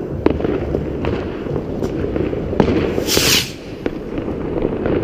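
New Year's Eve fireworks and firecrackers going off all around: a continuous rumble of distant bangs with several sharper, nearer cracks, and a short hiss about three seconds in.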